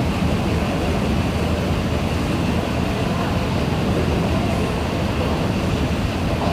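Steady low rumble and hiss of a Singapore MRT train running, with no sudden events.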